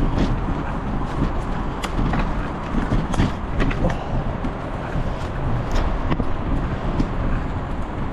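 Bicycle riding over a rough, overgrown woodland path: a steady rumble of wind and tyres on the microphone, with frequent short clicks and rattles from the bike and the ground.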